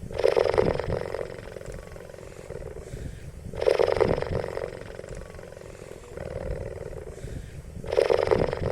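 Loud animal calls, one roughly every four seconds and each lasting about a second, with quieter calls in between.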